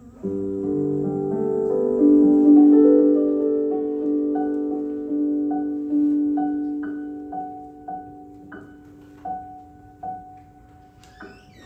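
Piano playing the closing bars of a slow song: a held chord that swells and fades, then a single high note struck over and over, slowing and dying away.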